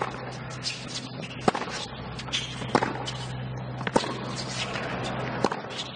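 Tennis rally: a sharp racket strike on the ball about every one and a half seconds, with fainter bounces between, over a low steady hum.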